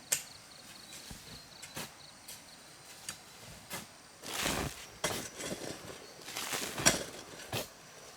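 Irregular knocks and clacks with a few longer rustling scrapes, the sounds of hand work with wood and brush outdoors.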